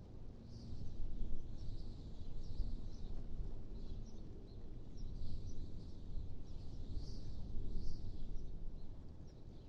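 Wind blowing in gusts, a low rumble that swells and eases, with faint high bird chirps scattered throughout.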